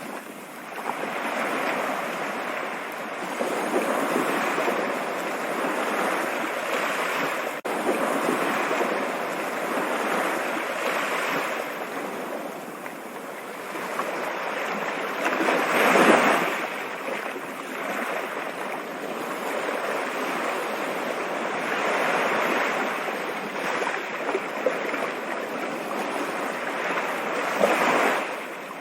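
Stream water rushing continuously, rising and falling in surges, with a louder swell about halfway through.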